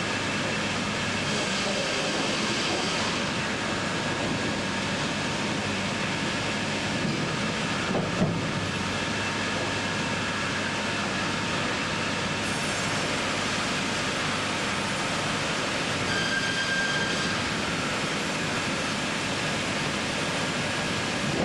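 Sawmill bandsaw line machinery running steadily, an even mechanical noise with faint steady whines in it and one short click about eight seconds in.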